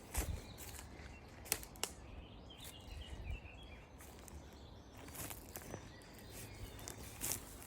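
Outdoor ambience: a steady low rumble with scattered sharp clicks and knocks, the loudest just after the start and near the end, and a few faint bird chirps about three seconds in.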